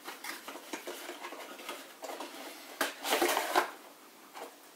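Computer parts and their packaging being handled: scattered light clicks and taps, with a louder rustle about three seconds in.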